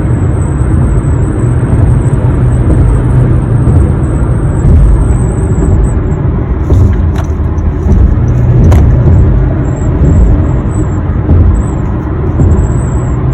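Road and wind noise inside a 2021 Honda HR-V's cabin at highway speed with the moonroof tilted open. Over it runs a thin, high-pitched whistle that wavers in pitch, steady at first and then coming and going in the second half. This is the piercing whistle the owner puts down to a design flaw.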